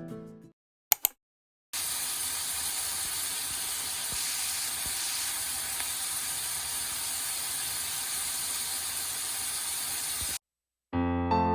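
A steady, even hiss, mostly high-pitched, that starts and stops abruptly, after two short clicks about a second in.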